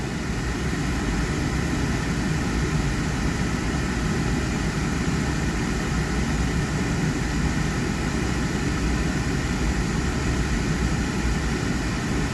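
Thermo Pride Spirit Series oil-fired furnace's burner running steadily after ignition: burner motor and flame noise. This is the fan-delay stage, with the blower not yet on.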